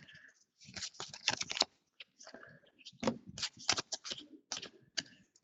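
Basketball trading cards being handled and flipped through by hand: irregular light clicks, slides and rustles of card stock.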